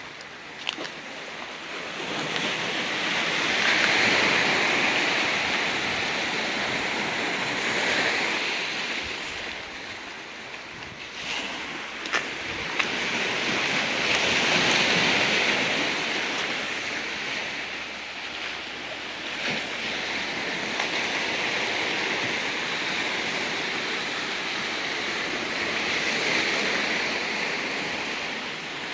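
Ocean waves washing onto a rocky beach, the surf swelling and falling back every few seconds, with wind. A few brief clicks stand out over it.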